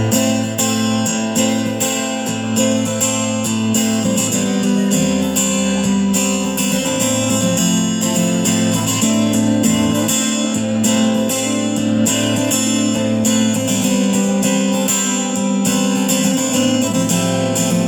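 Guitar strumming chords in a steady rhythm, playing a song's intro.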